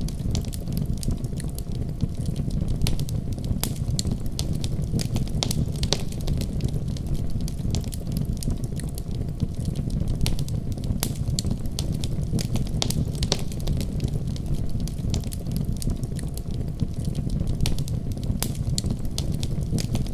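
Wood fire burning steadily, with a low rumble of the flames and frequent sharp, irregular crackles and pops from the burning wood.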